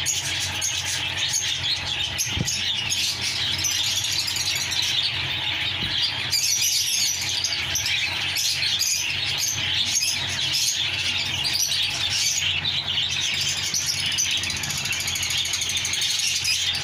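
Dense chorus of many caged parrots and small birds chirping and screeching at once, with no let-up.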